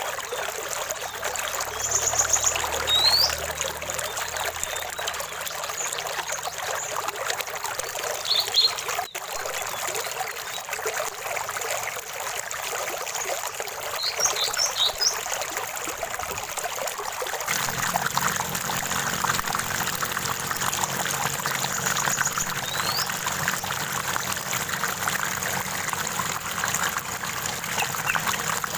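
Stream water running with a steady trickling splash, and a few short, high bird chirps and rising whistles at scattered moments.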